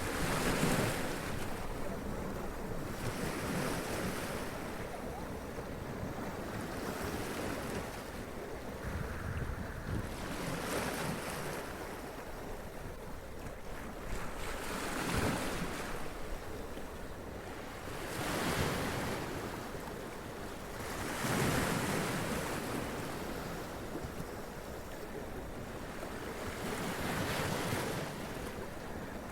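Sea waves breaking and washing up over rocks, one surge every few seconds over a constant rush of surf, with wind.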